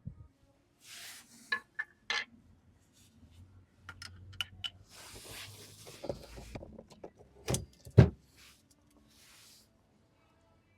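Handling noises: rustling, small clicks and rattles, and two sharp knocks a moment apart a little past the middle.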